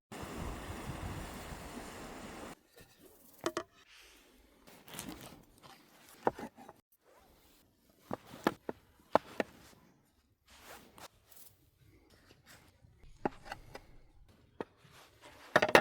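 A steady rasping noise for about two and a half seconds, then scattered clicks, light knocks and scrapes of things being handled.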